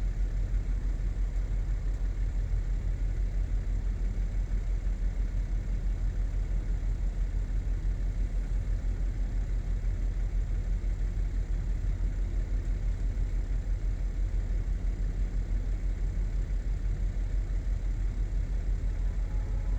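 A vehicle engine idling: a steady low rumble with a quick, even pulse.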